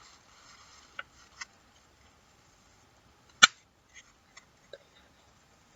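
A sheet of paper being handled and folded by hand: a faint rustle at first, then a few soft clicks, and one sharp tap about three and a half seconds in, followed by a few faint ticks.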